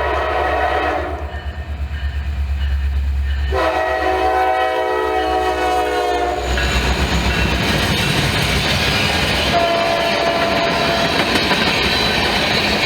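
Diesel freight locomotive sounding its multi-note air horn in two blasts: the first cuts off about a second in, the second runs from about three and a half to six and a half seconds. After that the train rolls past with loud wheel-on-rail noise, over the low rumble of the locomotive's diesel engine.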